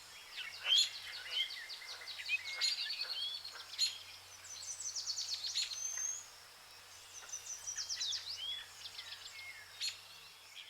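Several birds chirping and whistling in short calls and sweeping notes, with quick trills about five and eight seconds in.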